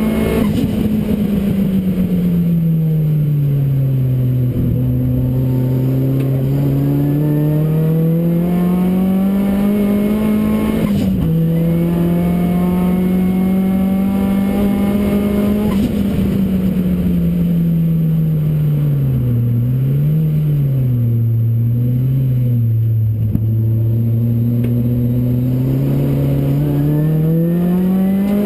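Modified Ford Focus RS engine in a Ford Racing Puma race car, heard onboard at track pace. It runs loud and continuous, its note rising and falling as the driver accelerates and lifts, with sudden jumps in pitch at the gear changes.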